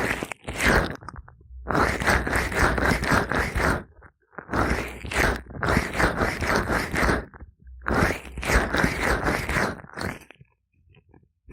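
Gloved fingers rubbing oil over ears in an ASMR ear massage, making wet crackling, scraping rubs. The rubs come in four passes, a short one at the start and then three of two to three seconds each, split by brief pauses, and stop about a second before the end.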